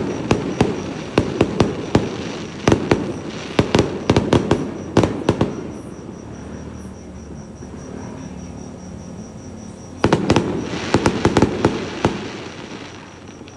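Fireworks going off in quick series of sharp bangs and crackles. They ease off about halfway through, then another dense burst comes about ten seconds in and fades near the end.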